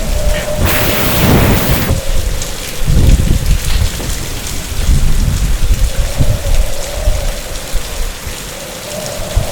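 Heavy rain pouring steadily, with a loud crack of thunder about a second in followed by deep rolling rumbles. A faint wavering whine sits under the rain.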